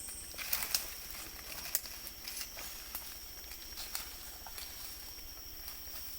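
Tropical forest ambience: a steady high-pitched insect drone, with scattered small clicks and snaps.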